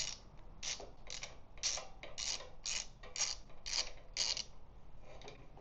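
Ratchet wrench on a long spark-plug socket clicking in short back-and-forth strokes, about two a second, while a spark plug is unscrewed.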